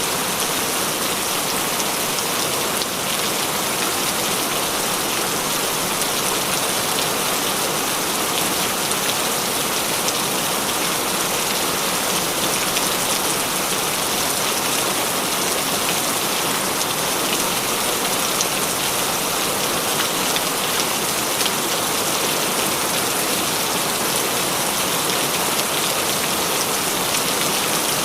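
Heavy rain falling steadily, a constant dense hiss of drops on a surface with no letup.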